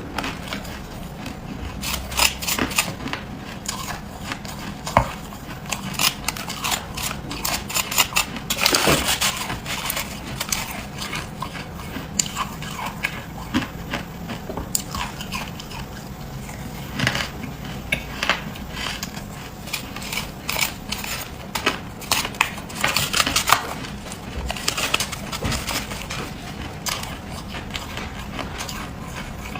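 A person biting and chewing freezer frost: irregular crisp crunches and crackles, thickest about a third of the way in and again about three quarters through.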